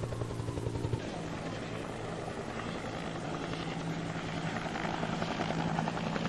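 A steady low mechanical drone with a rapid beating flutter.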